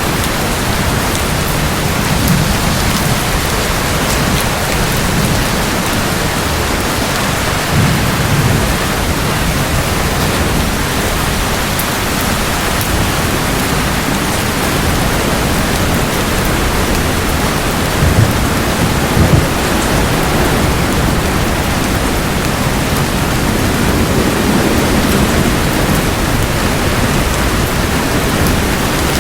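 Steady rain falling, with low rumbles of thunder rolling in several times; two sharper thunder peaks come a little past the middle.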